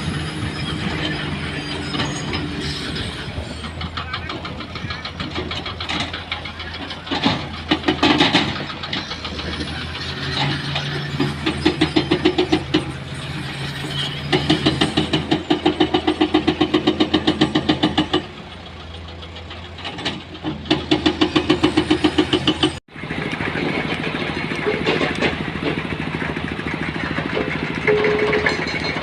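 Engine running steadily, with several stretches of rapid, even pulsing. The sound cuts out for an instant about 23 seconds in, then goes on.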